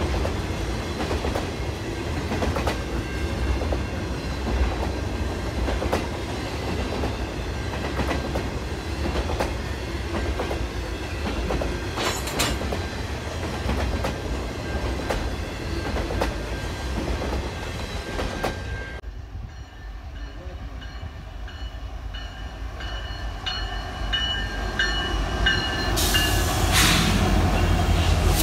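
Freight train cars rolling past, their wheels clacking over rail joints. About two-thirds of the way in the sound drops off abruptly, then thin high-pitched wheel squeal starts and grows louder near the end.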